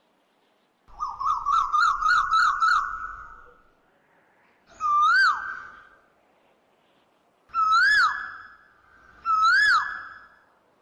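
A bird calling: a clear whistled note that rises and then drops sharply, first a quick run of about six notes, then single notes every two or three seconds.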